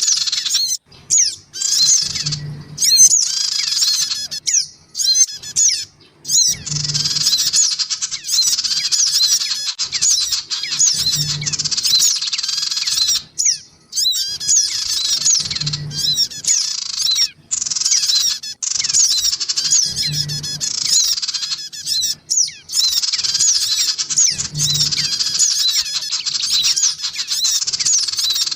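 Bird-lure recording of sogon birds calling frantically: dense, rapid high chirps and squeaky trills, broken by short pauses, with a brief low thud about every four and a half seconds.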